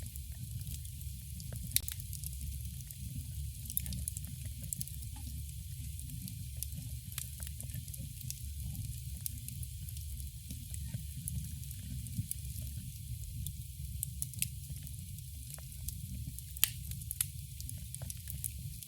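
Campfire burning: a steady low rumble of flames with scattered sharp crackles and pops of burning wood, one louder pop near the end.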